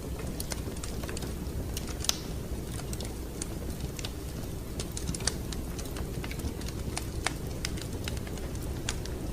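Wood fire crackling: irregular sharp snaps and pops over a steady low rumble of the burning fire, with one louder pop about two seconds in.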